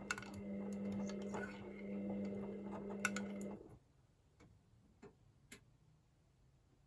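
Hoover VisionDynamic washing machine running at the start of its cycle: a steady hum with irregular clicks and rattles that cuts off suddenly about three and a half seconds in, followed by a few faint ticks.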